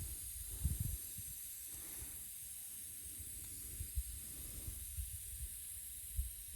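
Faint handling sounds of a tire plug strip being worked into a plug kit's needle tool: scattered soft knocks and rubbing, over a steady background hiss.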